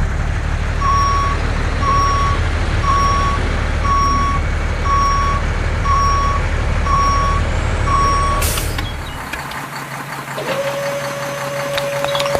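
Truck engine running under a reversing alarm that beeps about once a second, eight beeps in all. The beeping and the engine stop abruptly after about eight seconds. A quieter hum follows, and a steady high tone comes in near the end.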